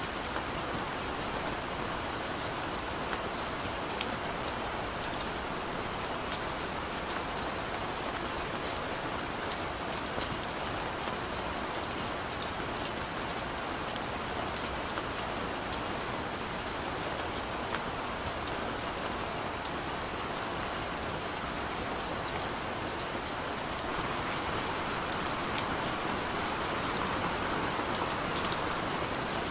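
Steady rain falling, with scattered individual drops ticking on a surface; it grows slightly heavier near the end.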